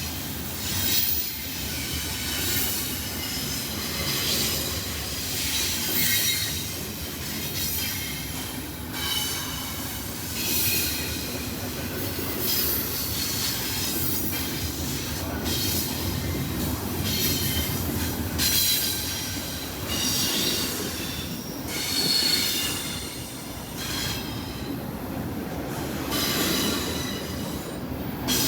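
Freight train cars rolling by over a steady rumble. Wheel flanges squeal against the rail in short, high bursts that come back every second or two.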